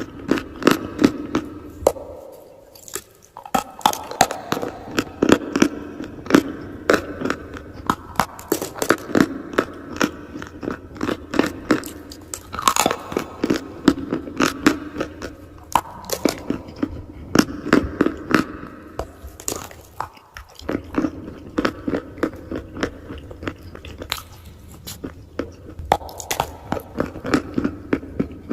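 A person biting and chewing crunchy chalk and clay close to the microphone, with dense crackling crunches. Brief lulls come about three seconds in and again about twenty seconds in.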